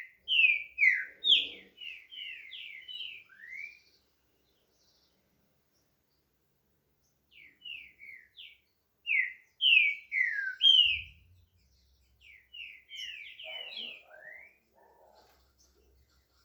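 Green-winged saltator (trinca-ferro) singing: three phrases of short, loud whistled notes, each slurring downward, separated by pauses of a few seconds.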